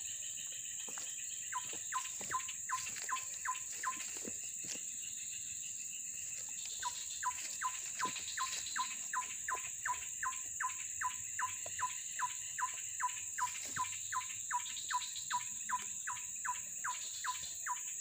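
A bird calling a rapid series of short whistled notes, each dropping in pitch, about two and a half a second. A short run comes about a second and a half in, then a long run from about seven seconds in. A steady high insect drone runs under it.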